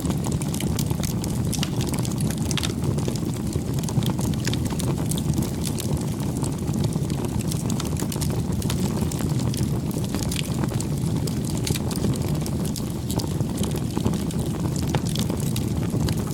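Campfire burning, with a steady low rush of flame and many sharp, irregular crackles and pops of burning wood.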